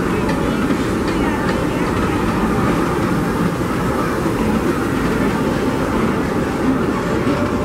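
Narrow-gauge Disneyland Railroad passenger and stock cars rolling across a wooden trestle bridge overhead, a loud, steady rolling noise of wheels on rail.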